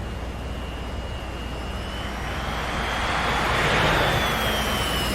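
Jet aircraft flying past: engine noise with a high whine that swells to its loudest about four seconds in, the whine's pitch falling as it goes by.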